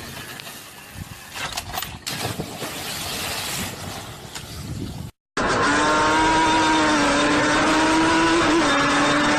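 Road and wind noise with a few sharp clicks, then, after a short cut, a motorcycle engine running loud and steady at high revs, its pitch holding with two small blips near the end.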